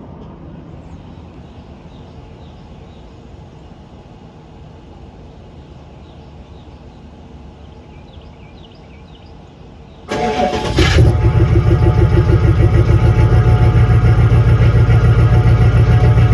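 Pickup truck engine cold-started: the starter cranks briefly about ten seconds in, the engine catches almost at once, and it settles into a loud, steady, evenly pulsing idle.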